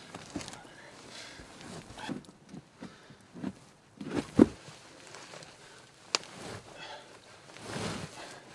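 Irregular rustling and knocking, with a loud thump about four and a half seconds in and a sharp click about six seconds in.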